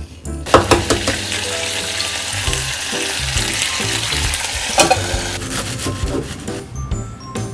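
Food sizzling in a hot frying pan, starting suddenly about half a second in and dying down near the end, with a couple of louder crackles along the way.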